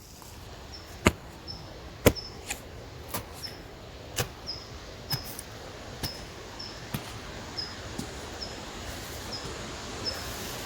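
A small bird repeating one short, high chirp about twice a second, over a steady background hiss. Sharp snaps come about once a second and are louder than the chirps.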